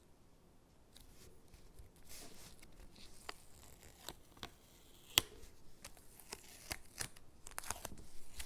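Stickers being peeled from a backing sheet and pressed onto paper cutouts: quiet paper rustling and soft peeling, broken by a string of sharp little clicks and taps, the loudest about five seconds in.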